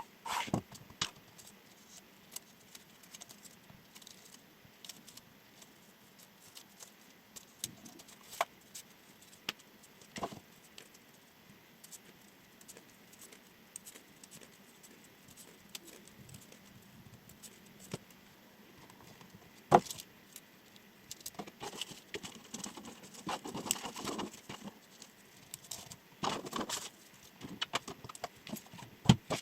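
Handling and test-cutting with a chef knife: scattered light clicks and taps, then short stretches of rustling, scraping cuts in the last third.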